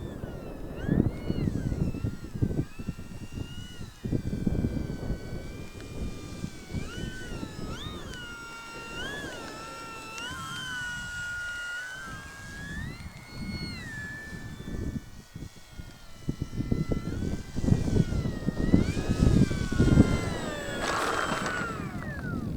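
Electric motor and propeller of a Durafly Slow Poke RC airplane whining in flight, its pitch rising and falling with throttle and as it flies about, with a falling sweep as it passes near the end. Gusts of wind rumble on the microphone.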